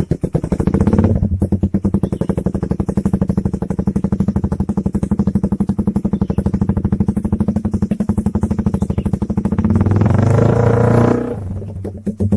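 Suzuki Satria FU 150 four-stroke single-cylinder engine idling through a CLD C3 aftermarket exhaust, with an even, rapid exhaust pulse. It gets a short blip of throttle about a second in. Near the end it gets a longer rev that drops back to idle.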